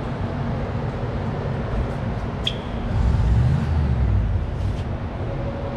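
Low rumble of a motor vehicle, swelling for a second or so near the middle, with one short high squeak about two and a half seconds in.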